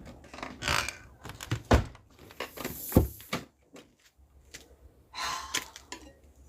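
Rustling and scuffing with several dull thuds; two sharp knocks stand out, about two and three seconds in.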